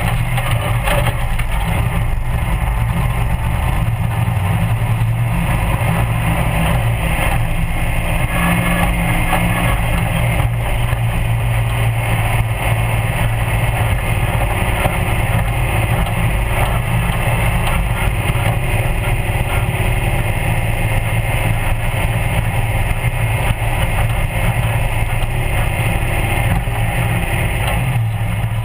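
Formula Offroad buggy's engine running loud and fairly steady as the car is driven over a dirt track, heard from a camera inside the open cockpit.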